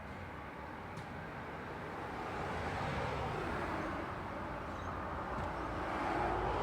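Road traffic: a steady wash of tyre and engine noise, swelling as vehicles pass, once about halfway through and again, louder, near the end.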